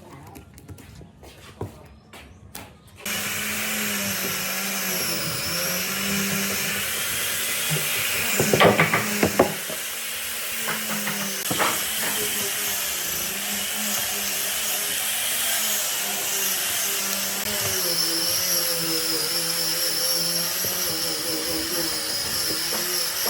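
A few light taps, then an electric power tool switches on about three seconds in and runs steadily with a motor hum and a high whine, surging louder a few times near the middle.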